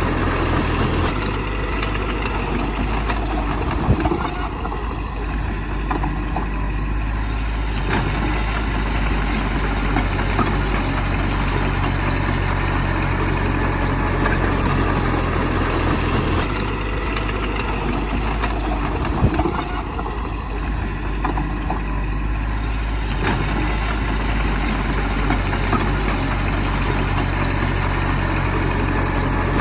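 Heavy earthmoving machine's diesel engine running steadily, with a sharp clank about four seconds in and another around nineteen seconds.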